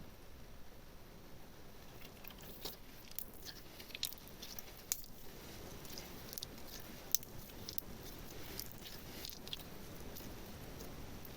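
Slime being handled close to the microphone: scattered small sticky clicks and crackles, irregular and fairly soft, thickest through the middle.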